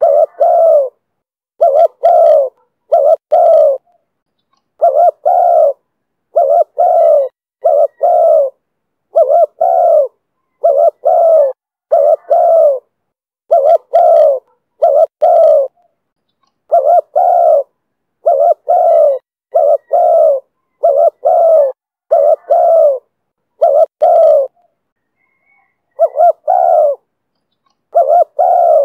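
Spotted dove (chim cu gáy) cooing in the 'thổ thúc bổi' call style: short low coos, mostly in close pairs, repeated over and over with brief pauses between, and one longer pause a little before the end.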